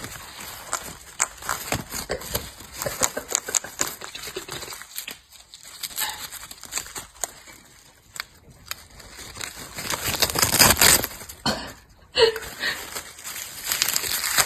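Paper crinkling and crackling as a parrot tears and chews at it, in irregular bursts of small rustles that grow loudest about ten to eleven seconds in.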